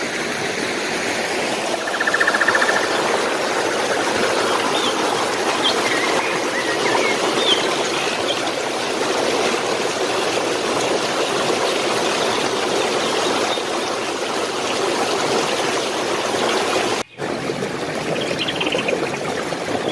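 Stream water running steadily, with a few short bird chirps over it. The sound cuts out for a moment about seventeen seconds in, then the water resumes.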